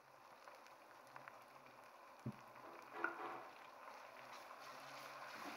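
Chopped tomatoes sizzling faintly in hot oil with browned onions, growing slightly louder. There is a single knock about two seconds in.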